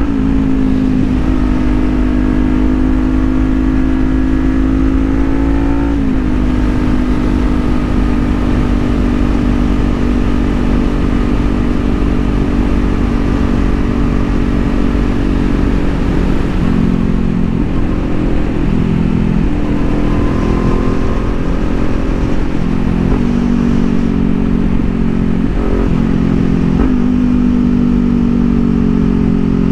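Kawasaki Ninja 400 parallel-twin engine running at steady cruising speed, heard with wind rush on a helmet-mounted microphone. The engine note steps up about six seconds in, then dips and climbs several times in the second half as the engine speed changes.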